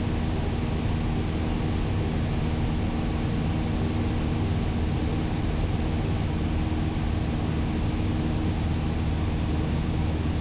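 Cessna 172's four-cylinder piston engine and propeller droning steadily in flight, heard as loud, even cabin noise.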